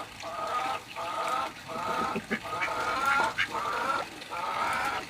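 A chicken calling over and over: about six drawn-out calls, each roughly half a second long, coming one after another. A few short knocks sound around the middle.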